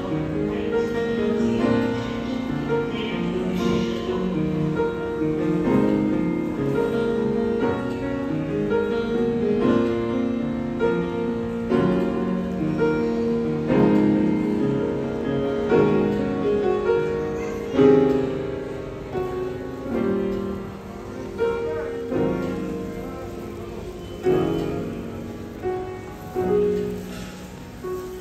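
Piano played: a flowing stream of melody over chords. In the second half, single chords are struck and left to ring and fade.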